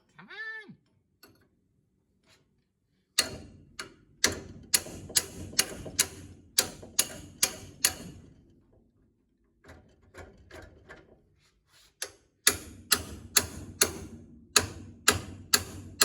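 Hammer blows on a rusted-in steering linkage part of a 1960 Chevrolet Impala, struck to break it free: two runs of quick hits about two a second, each with a short ring, and a few lighter knocks between the runs. A brief grunt comes about half a second in.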